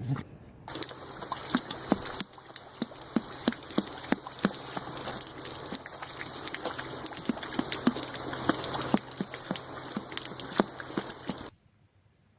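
A dog lapping water, each lap a short wet click, about two to three a second, over a steady rush of running water. The sound cuts off suddenly near the end.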